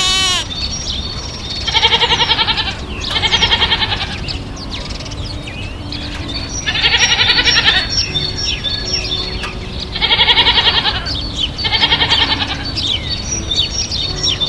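Five quavering bleats, each under a second long, spaced a few seconds apart, with faint high chirps in the background.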